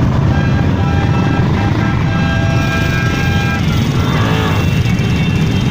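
Motorcycle engines running together in a steady, loud low rumble as a parade of motorcycles rides past.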